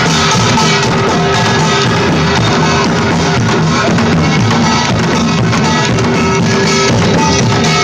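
Loud live band music, with a drum kit and other instruments playing throughout.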